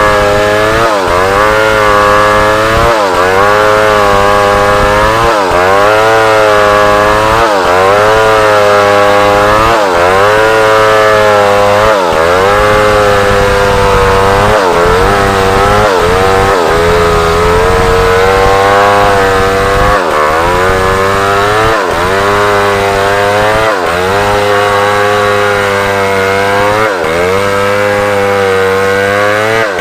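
Large chainsaw cutting African wood (Maesopsis) into lumber, running at full throttle. Its pitch dips and recovers about every two seconds as the chain bites into the cut and the engine works against the load.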